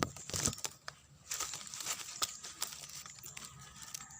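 Coconut palm leaves rustling and crackling as they are handled and folded, with many irregular sharp snaps.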